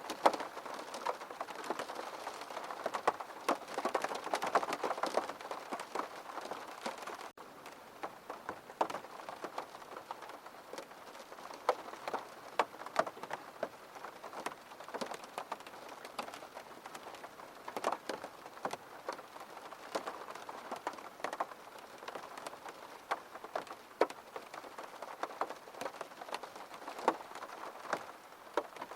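Steady rain falling on a hard surface, with many separate drops ticking sharply over the hiss. There is a momentary break about seven seconds in, after which the rain is a little quieter and the single drops stand out more.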